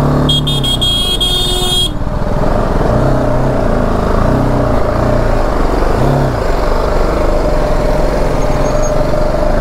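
BMW G 310 GS's single-cylinder engine running while riding, its pitch rising and falling with the throttle. A high-pitched horn sounds for about a second and a half near the start.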